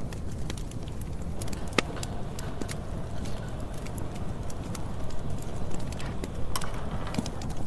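Wood campfire burning: a steady low rumble of the flames with sharp, irregular crackles and pops from the burning wood.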